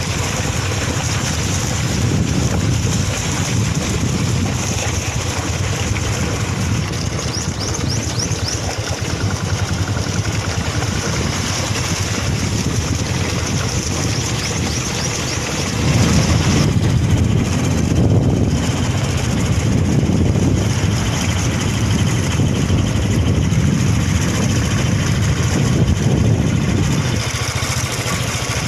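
Motorcycle engine running on the move, under a steady rush of wind and road noise; it gets louder about halfway through.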